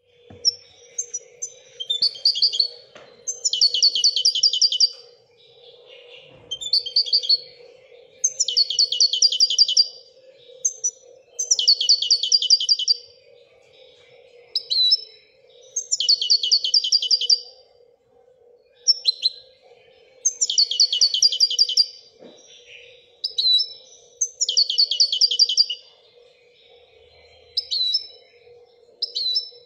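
Moroccan goldfinch singing in the "Widaniya" song style: bursts of rapid, high trills about a second and a half long, repeated every three to four seconds, with short single call notes between them. A faint steady low hum runs underneath.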